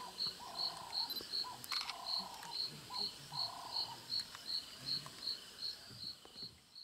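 A cricket chirping steadily at about three short high chirps a second. In the first half a lower call repeats about every second and a half, four times. All of it fades out near the end.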